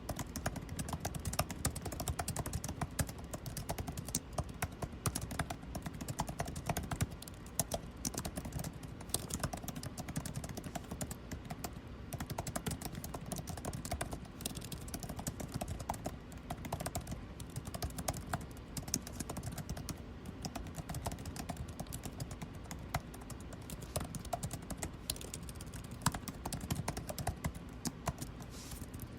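Continuous typing on a computer keyboard, irregular key clicks with short pauses, over a steady low hum of air conditioning.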